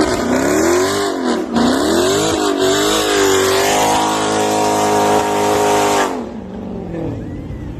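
Dodge V8 with an aftermarket exhaust, revved in several quick blips, then held at steady high revs for a couple of seconds. About six seconds in the throttle is released and the revs fall away.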